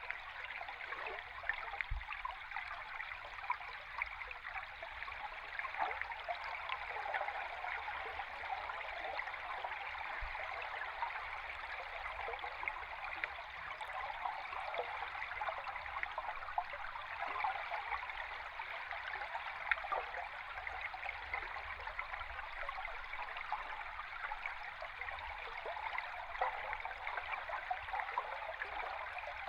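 A river stream heard underwater: a steady rushing of moving water with scattered small ticks and pops and a low rumble beneath.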